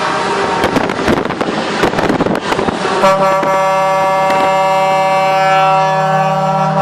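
Truck air horn sounding one long, steady blast that starts about three seconds in, after a stretch of rough, crackling vehicle noise.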